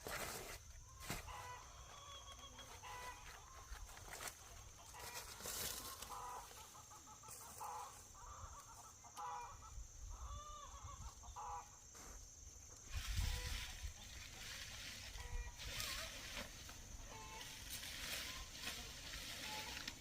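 Chickens clucking, with short calls scattered throughout over a steady faint high-pitched tone. A brief low rumble comes about two-thirds of the way in.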